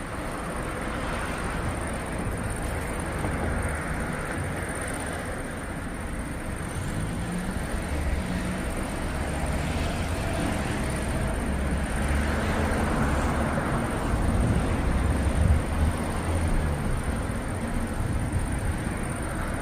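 Rolling thunder rumbling low and long, swelling in the second half, over a steady hiss.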